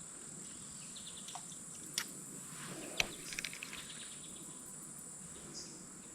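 Insects droning outdoors as a steady high-pitched buzz, with two sharp clicks about two and three seconds in and a brief patter of faint ticks just after the second.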